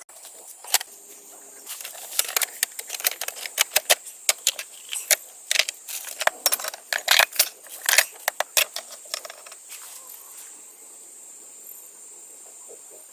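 Irregular metallic clinks and clatter of small objects being handled, several a second, dying away about three-quarters of the way through. Under them an autumn insect chorus keeps up a steady high-pitched trill.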